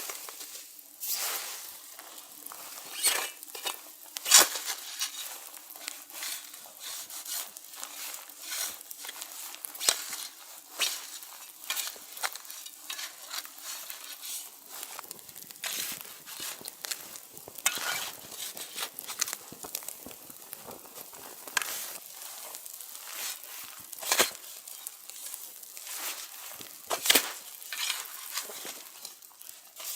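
Food sizzling and crackling in a pan over a campfire, with irregular clicks and scrapes of stirring and a few sharper knocks.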